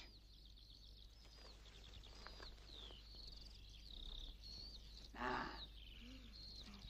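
Small birds chirping over and over, quietly: short high whistled notes, some sliding down in pitch and some up. About five seconds in there is a brief, louder burst of noise.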